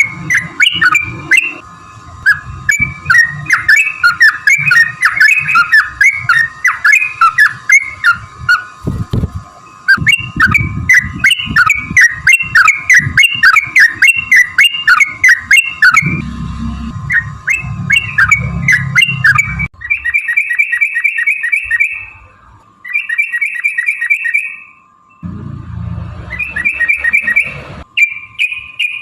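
Yellow-vented bulbuls singing: fast, bubbly chattering phrases in quick succession. From about twenty seconds in, these give way to three short runs of rapid, even, rattling trills. A steady faint tone lies underneath.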